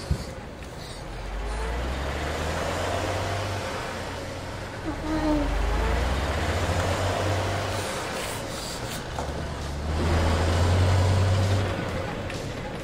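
Heavy truck engine running with a low rumble that swells twice, under a steady hiss.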